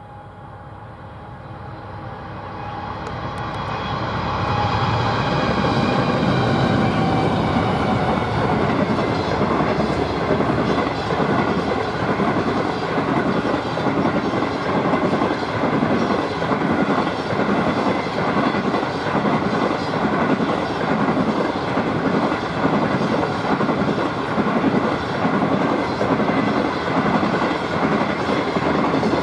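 Diesel-hauled train approaching and passing close by. Locomotive engine noise and a high whine build over the first six seconds and dip slightly in pitch, then the steady rhythmic clatter of the train's wheels over the rail joints goes on as the cars pass.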